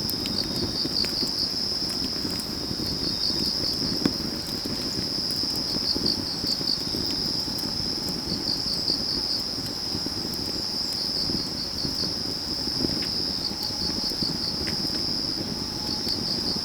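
Autumn night insects: a cricket trilling on one steady high note while another chirps in short pulsed runs every two to three seconds, over a crackling wood fire with scattered sharp pops.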